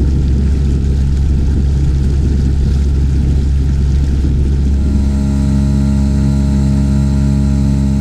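Small 3.3 hp Mariner single-cylinder two-stroke outboard running steadily at displacement speed, a loud even hum with a rushing noise over it for about the first half.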